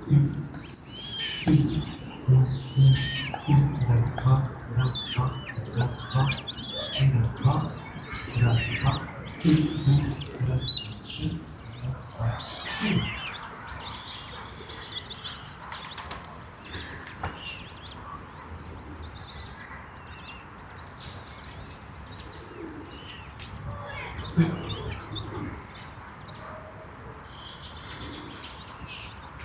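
Small birds chirping and twittering in quick, varied calls. A louder low pulsing sound runs under them for the first half and then fades, leaving the birdsong over a quieter background.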